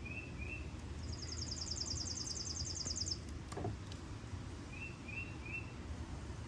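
Songbirds calling: a high, rapid trill lasting about two seconds, and two sets of three short chirps. A single knock sounds about halfway through.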